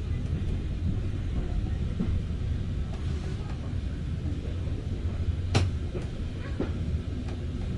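Train running on the rails, a steady low noise from the wheels and track, with one sharp click about five and a half seconds in.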